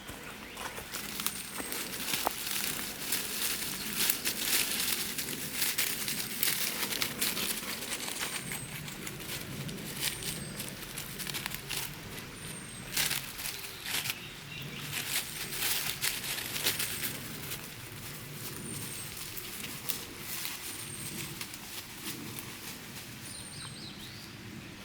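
Footsteps crunching and rustling on a damp leafy trail, irregular and busiest for the first two-thirds, then lighter. Over them a bird gives a high, thin downslurred note about every two seconds.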